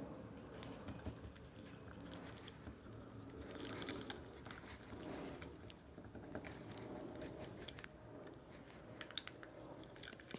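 Faint stirring of a white glue and body lotion slime mix in a container, with soft uneven scraping and small clicks from the utensil.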